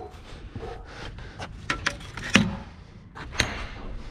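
Pieces of scrap metal being handled: a few sharp knocks and clanks, the loudest a little past two seconds in with a brief ring.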